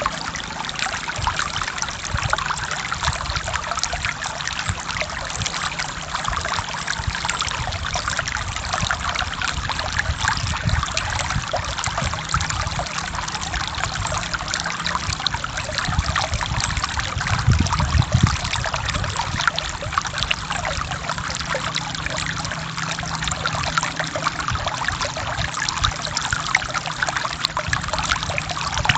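Forest stream flowing and splashing steadily over rocks, with a dense trickling and babbling of water.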